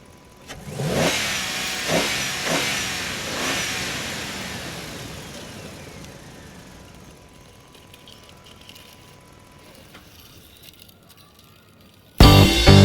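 Vehicle engine revving, several rising surges in the first few seconds that then die away slowly. Music cuts in suddenly near the end.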